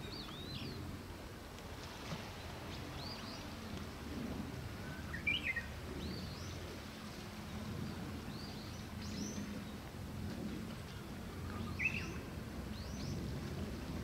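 Small birds chirping: short high calls scattered throughout, with two louder calls about five and twelve seconds in, over a steady low background rumble.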